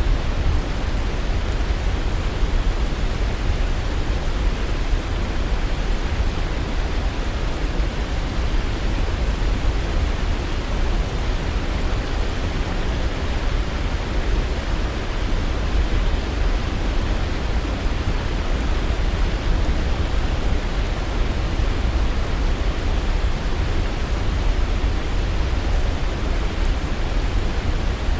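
Waterfall rushing steadily, a dense unbroken hiss with a heavy low rumble.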